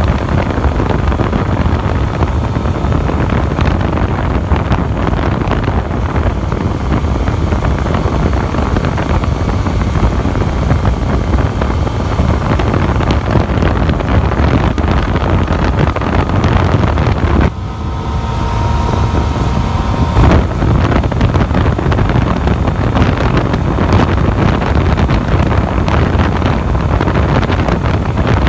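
Yamaha FZ-09 motorcycle's three-cylinder engine cruising at a steady highway speed, its hum largely buried under heavy wind rush on the microphone. About two-thirds of the way through, the wind drops for a few seconds and a steadier engine tone comes through more clearly.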